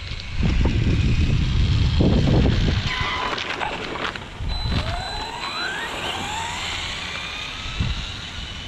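Arrma Vendetta RC car's brushless electric motor whining and rising in pitch as the car accelerates, with wind rumbling on the microphone in the first few seconds.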